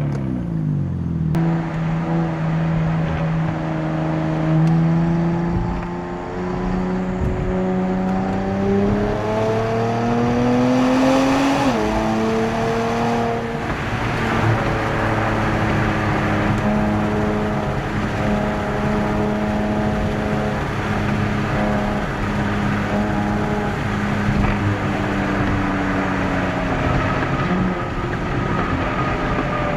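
Nissan Z Nismo's twin-turbo 3.0-litre V6, breathing through Nismo cold air intakes and a Nismo track exhaust, accelerating under load. The engine note climbs for about ten seconds, drops sharply at an upshift, then holds and slowly falls.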